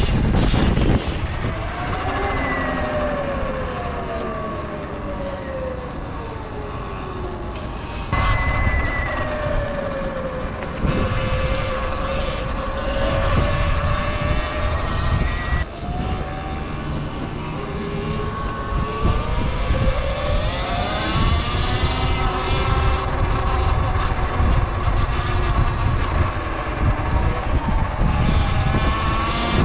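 Sur Ron electric dirt bike motor whining, its pitch sweeping up and down as the throttle is worked, over a heavy wind rumble on the microphone.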